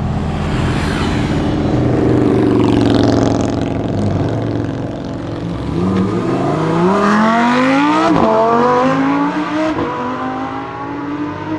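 Lamborghini Huracán STO's naturally aspirated V10 accelerating hard under full throttle. The pitch climbs steeply, drops sharply at an upshift about eight seconds in, climbs again and drops at a second upshift near ten seconds.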